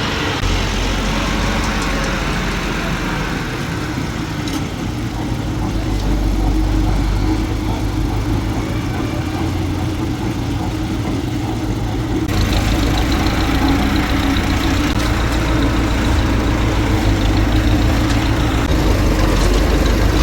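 Engine running steadily with a low hum, the machinery of a concrete pour. The sound changes abruptly about twelve seconds in.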